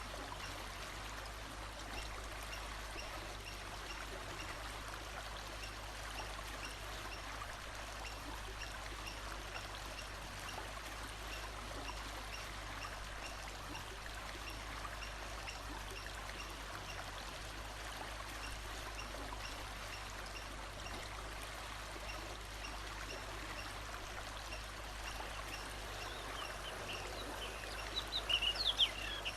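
Water running steadily in a forest stream, with a faint high chirp repeating evenly in the background. Near the end a bird calls loudly for about a second.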